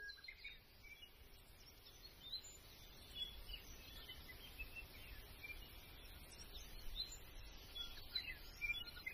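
Faint birdsong: several small birds chirping and twittering in short high calls, over a low background rumble.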